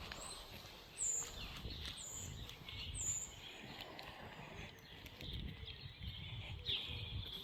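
Birds singing: a high, short whistled note repeated about once a second for the first few seconds, with other chirps around it, over a low steady rumble.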